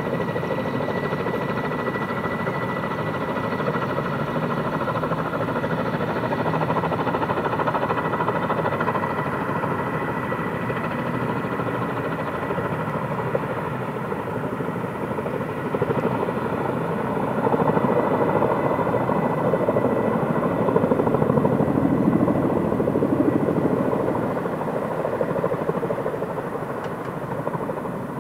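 Helicopter flying overhead: fast rotor chop with a thin, steady high whine from the turbine. It grows louder about two-thirds of the way through and eases off near the end.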